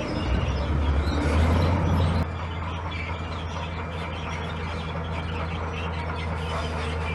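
Heavy construction machine's diesel engine running, working harder for about two seconds, then dropping abruptly to a steady lower drone.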